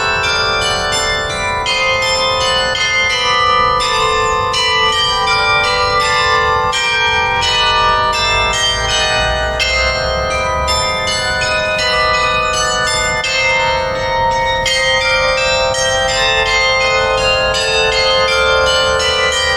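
Bells chiming continuously, with many overlapping ringing tones and new strikes every fraction of a second, over a low steady rumble.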